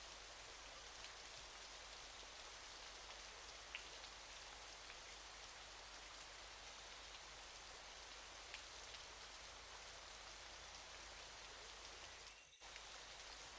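Waterfall: a steady, faint hiss of falling water with a few light droplet ticks. Near the end it briefly drops away for a moment, then carries on.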